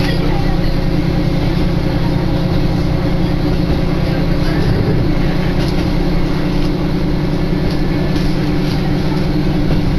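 Diesel railcar running along the line, heard from inside the car: a steady engine drone with wheel and rail noise.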